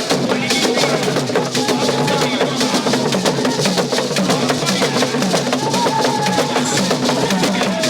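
Loud drum-led music with fast, steady percussion strokes, including sharp wood-block-like clicks, and a few brief held tones over the top.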